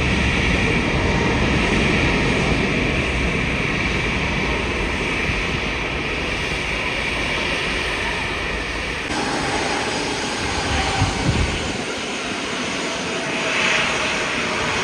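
Jet engines of a narrow-body airliner passing close by: a loud, steady rumble with a hissing whine above it. The sound changes abruptly about nine seconds in, and the deep rumble falls away about twelve seconds in.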